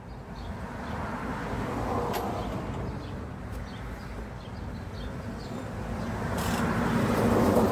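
Road traffic passing by, a wash of tyre and engine noise that swells twice, about two seconds in and again near the end, with a few faint clicks.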